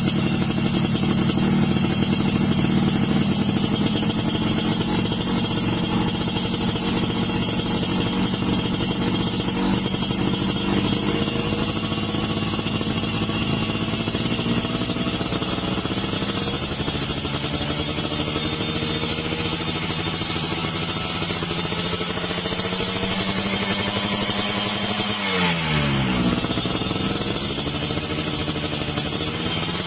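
Yamaha RX-King's 135 cc two-stroke single-cylinder engine running through an exhaust, held at a steady speed. About 25 seconds in, the engine speed dips sharply and then picks up again.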